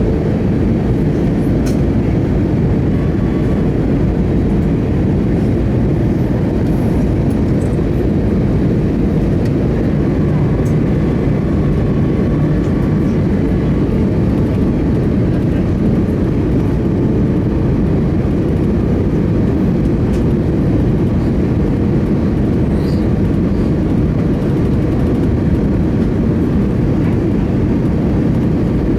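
Airbus A319 cabin noise: a steady low rumble of engines and rushing air that holds even throughout.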